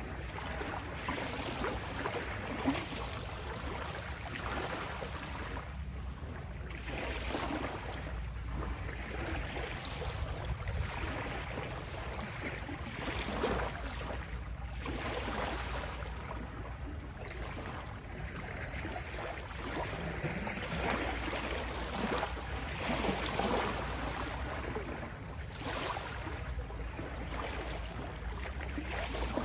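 Small waves lapping and washing on a shore, swelling and ebbing every few seconds.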